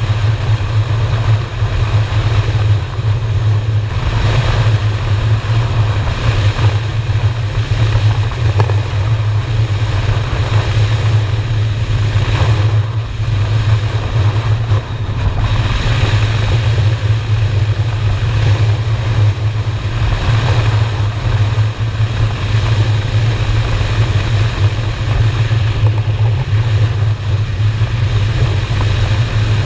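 Honda Shadow V-twin motorcycle engine running steadily at cruising speed, with wind noise on the camera microphone that swells and eases every few seconds.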